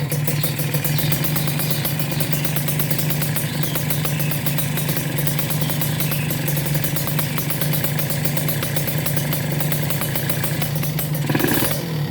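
Two-stroke Kawasaki Ninja motorcycle engine idling steadily through a Tyga aftermarket silencer, with a brief blip of the throttle near the end.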